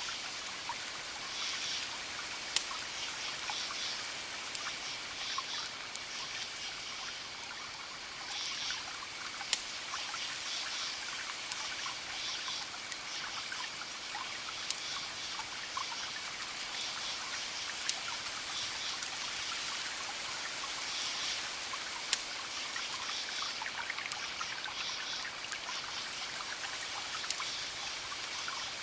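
Campfire crackling with occasional sharp pops, while crickets chirp in repeated pulsing bursts over a steady high trill.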